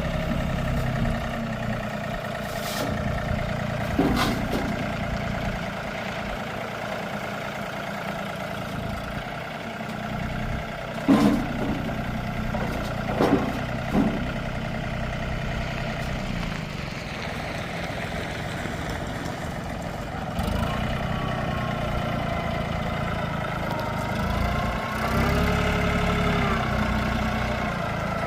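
John Deere 4210 compact tractor's diesel engine running steadily at idle, with a few sharp knocks about 4, 11 and 13 seconds in. From about 20 seconds in it gets louder and its pitch wavers as the engine speed changes.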